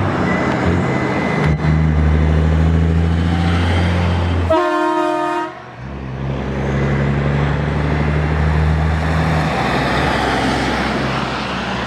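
Heavy truck engines running with a steady low drone, broken about halfway through by one air horn blast lasting about a second.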